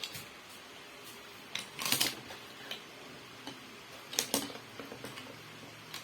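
Plastic Lego bricks clicking and rattling as they are handled, in a few short clatters, the loudest about two seconds in and again just past four seconds.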